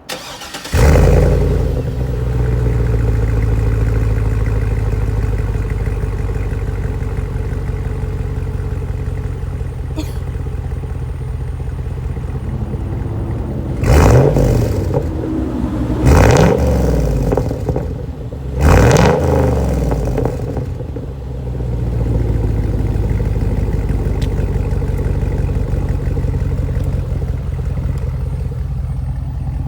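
Chevrolet Trailblazer SS's 6.0 L LS2 V8 starting up about a second in and settling to a steady idle, exhaling through an aftermarket SLP Loudmouth muffler placed just after the catalytic converter with the stock resonator kept. Near the middle it is revved three times, each rev rising and falling, before returning to idle; the owner still finds it pretty quiet.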